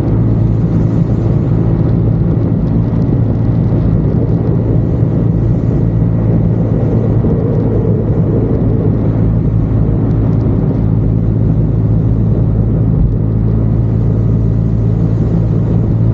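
Motorcycle engine running at a steady, even speed while riding, with a constant low drone.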